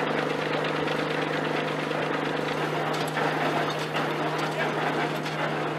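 Vintage tractor engine running steadily as it drives the threshing machinery by belt. About halfway through, the hum thins and more irregular ticks and knocks from the machinery come in.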